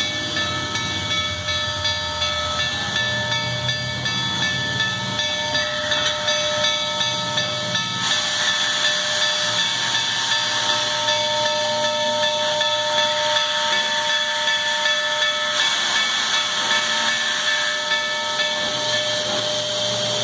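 Steam locomotive hissing steam, with several steady high whistling tones held over the hiss and a faint regular pulse; it cuts off suddenly at the end.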